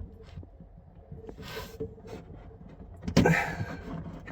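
Plastic push-fit plumbing parts being handled: small clicks and rubbing, a short hiss about a second and a half in, and a louder clatter about three seconds in.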